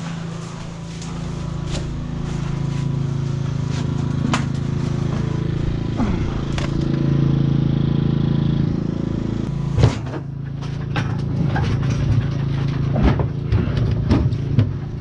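A vehicle engine running steadily, with scattered clicks and knocks over it and one sharp knock about ten seconds in.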